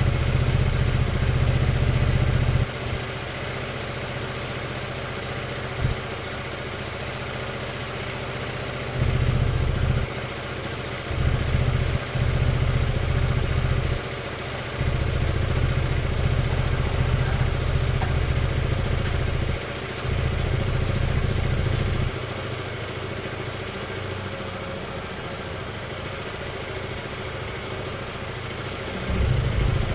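Scooter engine idling. A heavier low rumble cuts in and out every few seconds, and a few quick ticks come about two-thirds of the way through.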